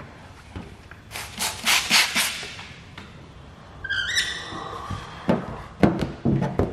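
Hand trigger spray bottle of PPF slip solution squirted about four times in quick succession, followed by a short high squeak and then a run of quick rubs and knocks against the film.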